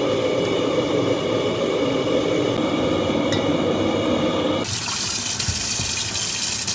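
Steady watery rush of a pot of beef hoof tendons boiling on the stove as they are ladled out into a steel bowl, with a light clink of the ladle. About four and a half seconds in it cuts abruptly to a brighter, steady hiss.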